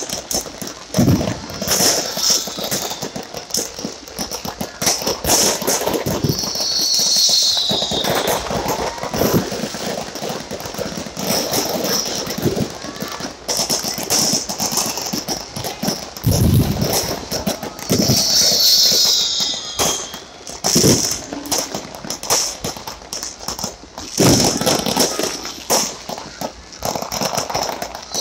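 New Year fireworks going off: repeated sharp bangs and crackling bursts, some in quick runs, over the voices of a large crowd.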